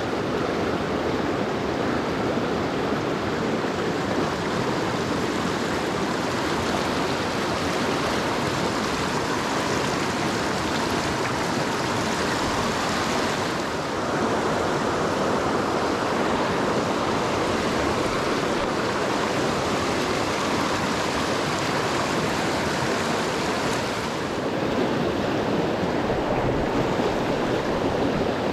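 Mountain stream rushing over rocks: a steady wash of water noise, dipping briefly twice.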